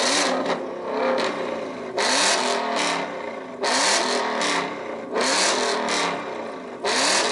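Car engine revved hard through a loud exhaust, five sharp blips about a second and a half apart, the pitch rising and falling with each one.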